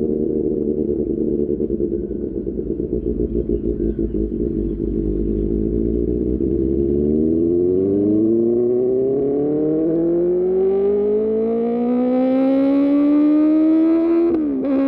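QJMotor SRK600 inline-four motorcycle engine through an Austin Racing aftermarket exhaust, running steadily at low revs. It then accelerates in one long rising pull, with a quick upshift near the end that drops the pitch.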